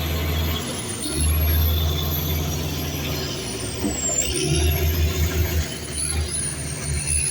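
Heavy earthmoving machine's diesel engine running under changing load, with a high whine that sags in pitch and recovers about a second in, around four seconds in, and near the end.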